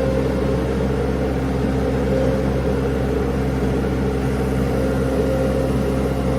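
Mini skid steer's engine running steadily, an even drone with no change in speed.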